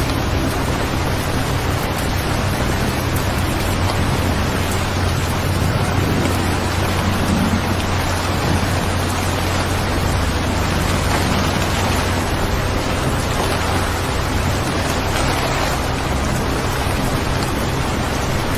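Steady rain, an even continuous hiss, over a low constant rumble.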